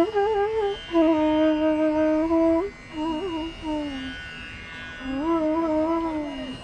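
Solo Indian classical melody in Raag Chandrakauns on one melodic instrument: short ornamented phrases and a long held note, with gliding turns between pitches. A brief gap about four seconds in, then a final phrase that ends in a falling glide.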